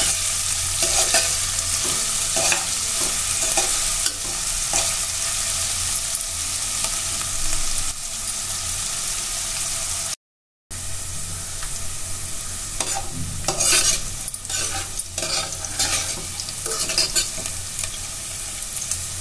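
Carrot and capsicum strips sizzling steadily in hot oil in a pressure cooker, with a metal slotted spoon scraping and knocking against the pot as they are stirred, more often in the second half. The sound drops out for about half a second a little past the middle.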